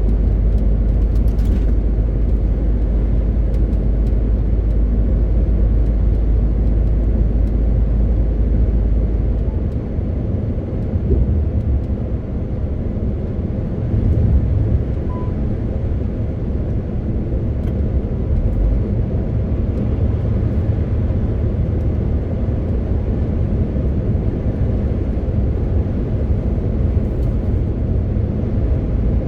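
MAN TGX 18.520 truck's straight-six diesel engine droning steadily with road noise while driving. About a third of the way in, the deep engine drone shifts up in pitch and stays there.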